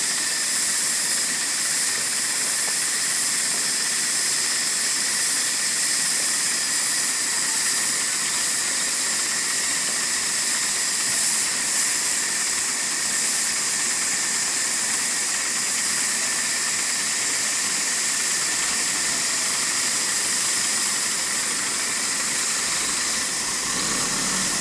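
Loud, steady hissing machinery noise, even and unbroken, with little low rumble.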